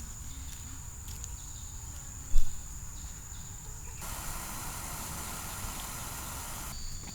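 Forest insects, crickets or similar, trilling on one steady high note. There is a single dull thump about a third of the way in, and a broad hiss swells in for about three seconds near the end.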